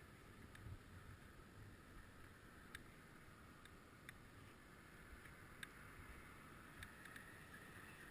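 Near silence: a faint low rumble with a few scattered, faint clicks.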